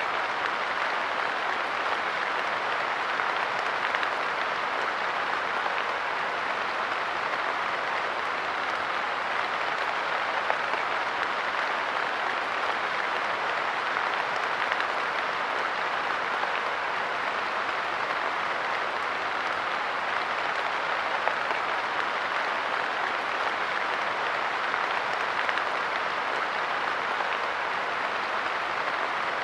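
Steady light rain pattering on a park bench, an even hiss of many small drops with occasional slightly louder drop hits.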